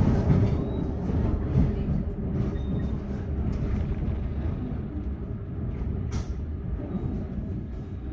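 On-board running noise of a Queensland Rail NGR electric train: a steady low rumble of wheels on track, with scattered short clicks and knocks, gradually getting quieter.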